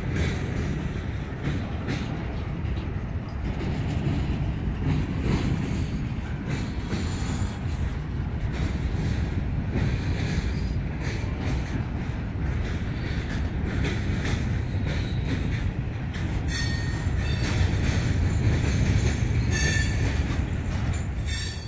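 Freight train cars rolling past close by: a steady low rumble of wheels on rail with scattered clicks from the rail joints. A few brief high wheel squeals come near the end.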